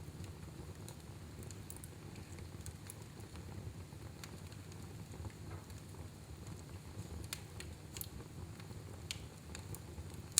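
Fire burning in a fireplace: a steady low rumble with irregular small crackles and pops scattered throughout.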